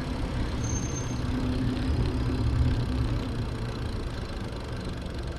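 Steady low rumble of wind buffeting the microphone on a moving bicycle, with a brief high thin tone about a second in.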